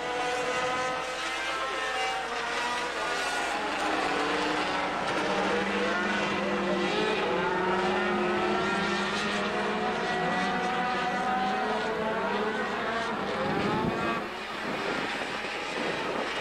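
Engines of a field of sport trucks running together at part throttle, several overlapping engine notes rising and falling slightly, as the pack circles before the green flag.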